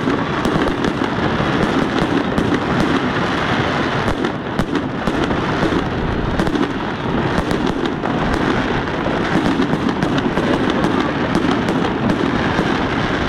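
Fireworks display going off in quick succession: a loud, dense crackle of many rapid pops that keeps on without a break.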